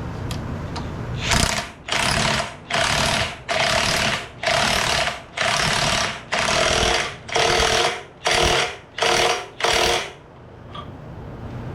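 An impact wrench hammering in about a dozen short trigger bursts, each about half a second long, starting about a second in and stopping near ten seconds. It is tightening the piston's fastener on a hydraulic lift cylinder rod by feel rather than to a torque spec.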